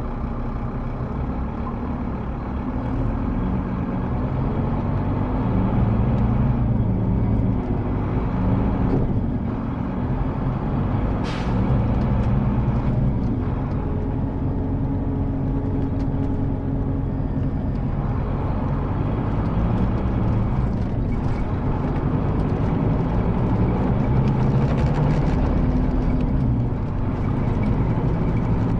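Scania K310IB bus engine running under way, its pitch rising and falling as the bus manoeuvres. About eleven seconds in comes a brief hiss of air from the brake system.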